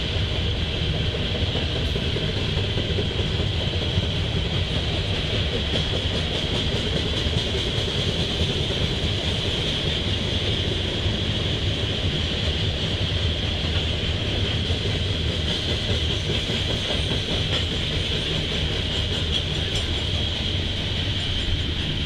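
Freight train of coal hopper cars rolling past, a steady rumble of steel wheels on the rails with a steady high-pitched hiss over it.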